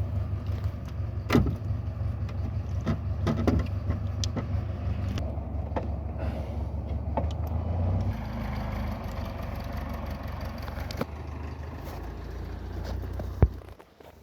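BMW E34 engine cranking on the starter motor without catching: one long, steady crank that changes tone about eight seconds in and stops with a sharp click near the end.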